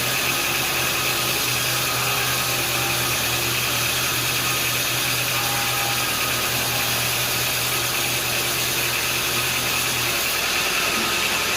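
Sawmill machinery running steadily: a constant motor hum under a hiss, with a low hum dropping out near the end.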